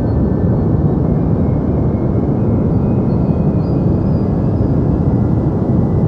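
Deep white noise: a steady, unchanging rush of noise weighted to the low end, with little in the highs.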